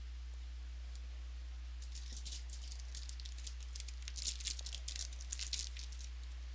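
Trading card pack wrapper crinkling and cards rustling as the next pack is handled and opened, a dense run of crisp crackles for about four seconds. A steady low electrical hum runs underneath.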